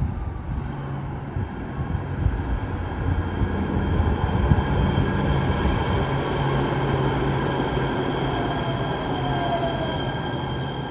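Los Angeles Metro train running on the track: a steady rumble with a steady high-pitched whine and a low hum.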